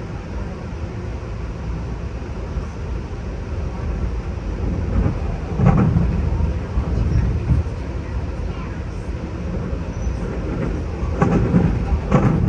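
Running noise heard inside a moving Amtrak Superliner Sightseer lounge car: a steady low rumble from the wheels and track, growing louder and rougher about five to six seconds in and again near the end.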